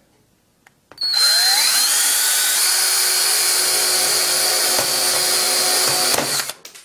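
An 18-volt cordless drill starts about a second in, its motor whine rising as it spins up, then runs steadily with the bit pressed into the middle of an iPhone 6 before stopping near the end.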